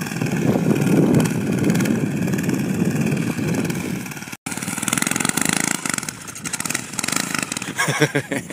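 Minibike's small Tecumseh engine running, with the sound cutting out for a moment about four and a half seconds in.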